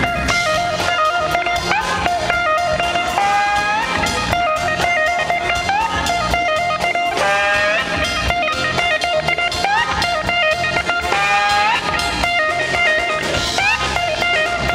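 Live jam band playing, led by an electric guitar with held notes and repeated upward sliding bends, over drums and bass.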